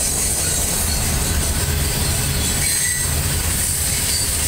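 Freight train's covered hopper cars rolling past in a steady low rumble, with high-pitched wheel squeal from the wheels grinding through the sharp curve.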